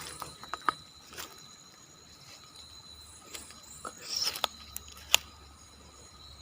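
Sparse footsteps and small crunches on dry ground, with one sharp click about five seconds in, over a faint, steady, high insect trill.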